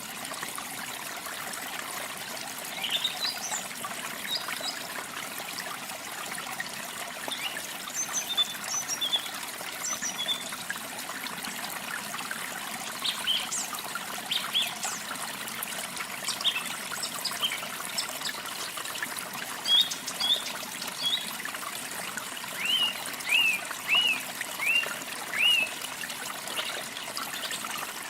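Water trickling steadily, with small songbirds chirping and calling over it. Near the end one bird gives five short chirps in quick succession.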